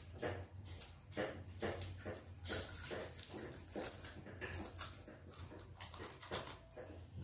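Crisp crunching as puffed-rice laddoos (murmura laddu) are bitten and chewed, about two crunches a second, over a steady low hum.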